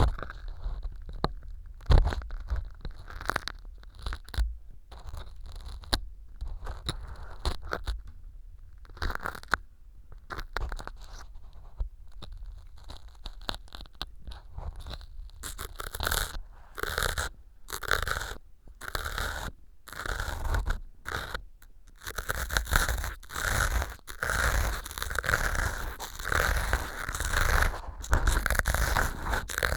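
Ear pick scraping and crunching through small pieces of dry floral foam packed into a silicone ear model, recorded with a binaural microphone. Short, crisp scrapes come at an uneven pace and grow denser and louder from about halfway in.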